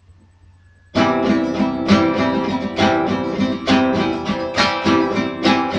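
Acoustic guitar strummed in a steady rhythm, starting abruptly about a second in after near quiet: the instrumental intro of a folk song, before the singing begins.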